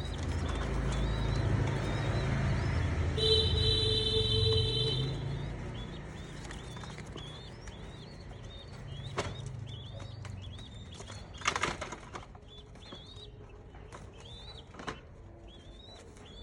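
A small bird calling over and over, a short rising chirp about once a second, over a low rumble that fades after the first few seconds. A brief steady tone sounds about three seconds in, and a short burst of noise comes near the middle.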